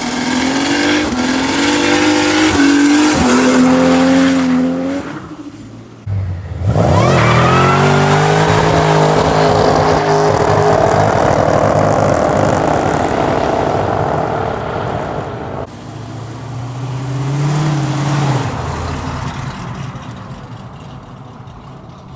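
Car engine revving with climbing pitch, easing off briefly, then a hard acceleration: a sudden sharp rise in pitch held at high revs for several seconds with a dense hiss over it. Another shorter rise in revs follows, then the sound fades away.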